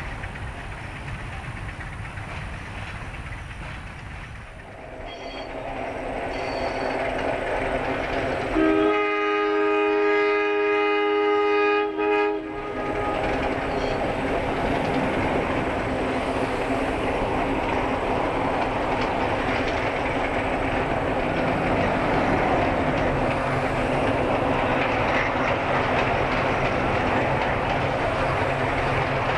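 Narrow-gauge train hauled by a 1946 H.K. Porter 80-ton diesel locomotive running past, its engine and wheels rumbling and clattering and growing louder about five seconds in. About nine seconds in, the locomotive's air horn gives one long blast of roughly three and a half seconds, briefly broken just before it stops.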